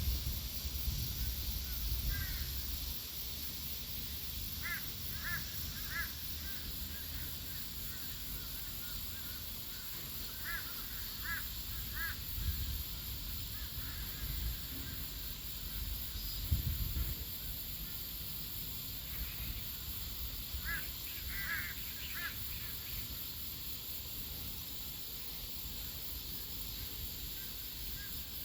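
Waterbirds on a river giving short calls in clusters of two to four, over a steady high chirring of riverside insects.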